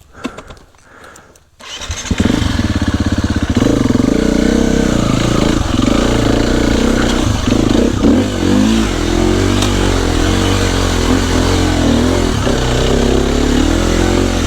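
Dirt bike engine starting about a second and a half in, then running loud with the revs rising and falling.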